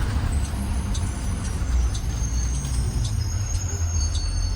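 Ride inside a 2020 Blue Bird Vision school bus: a steady low engine and road rumble, with scattered short high-pitched squeaks and ticks from the bus body and interior.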